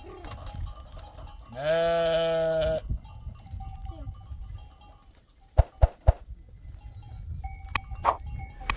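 A sheep gives one long, steady bleat about two seconds in, with the faint ringing of livestock bells from the flock. Three sharp knocks come in quick succession around the middle.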